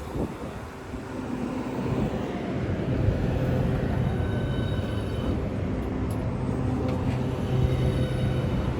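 Hitachi Class 395 electric multiple unit creeping slowly into the platform, a steady low hum from the train with faint higher whines that come and go partway through.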